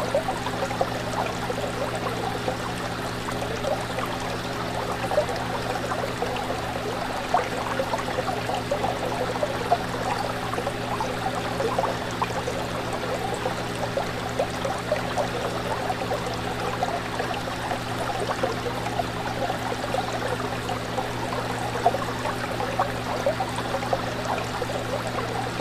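Fish tank water trickling and bubbling without a break, with an occasional louder plop, over a steady low hum.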